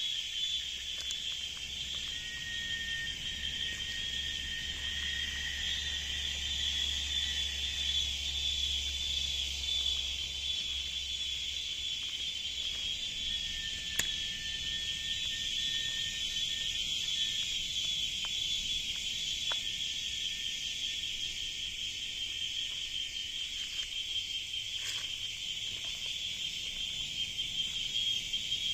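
Chorus of cicadas in a tropical forest, a steady high-pitched shrill drone that does not let up. Fainter thin whistling tones come and go beneath it, and there is one sharp click about halfway through.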